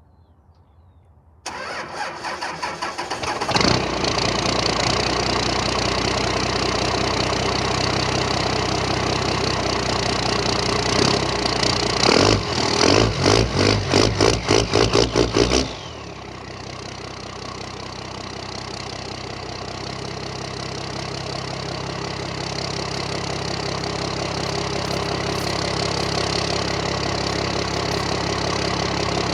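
Dodge engine cold-starting: the starter cranks for about two seconds before the engine catches and runs fast. About twelve seconds in, the throttle is blipped rapidly, roughly three times a second, then the engine drops to a steady idle that slowly grows louder.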